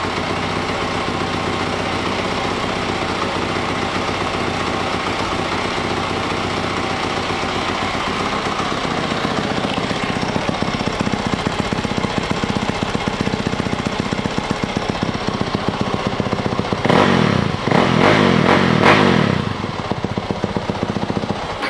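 2020 Yamaha YZ450F's 450cc single-cylinder four-stroke engine idling steadily, then revved in a few short blips near the end before settling back to idle.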